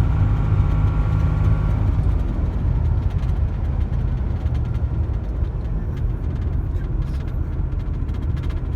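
Dodge diesel pickup truck under way: a steady low engine drone with road noise, and a faint higher whine that fades out about two seconds in.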